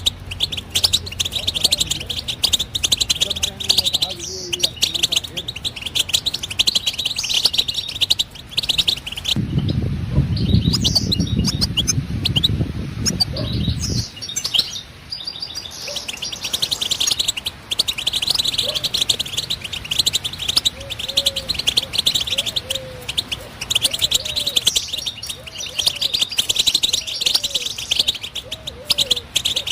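European goldfinch singing: a long run of fast, liquid twittering and chattering notes. The song breaks off for about four seconds a third of the way in while a low rumbling noise takes over, then resumes.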